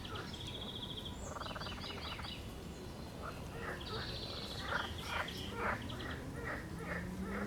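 Several birds singing, with repeated trills and buzzy phrases. A run of short crisp sounds comes in the middle and second half, and a low rising tone begins near the end.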